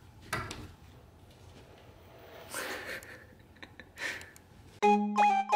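A cat hissing in three short breathy bursts about two seconds apart. A bright mallet-percussion jingle starts near the end.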